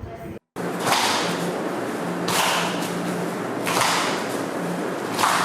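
Four whooshing swishes, evenly spaced about a second and a half apart, over a faint steady hum.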